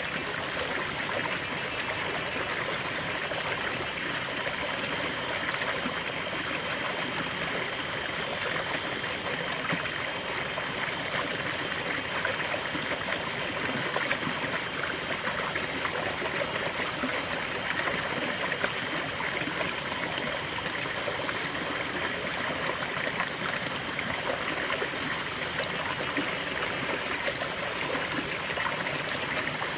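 Small forest waterfall and stream: water flowing and splashing steadily, a continuous even rush with a trickling, bubbling texture.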